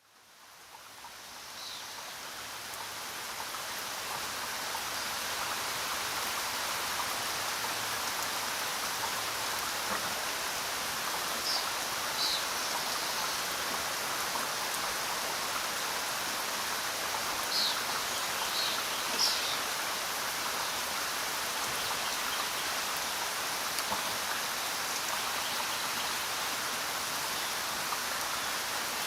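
Steady rain falling, an even hiss that fades in from silence over the first few seconds and then holds level, with a few brief high-pitched sounds over it.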